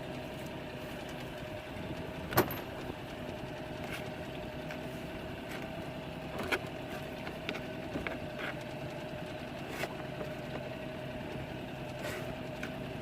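Boat engine idling steadily, with a few sharp clicks and knocks on board, the loudest about two seconds in.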